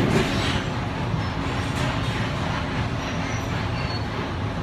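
Suburban electric train running at speed: a steady rumble of wheels on the track and running gear, heard from on board.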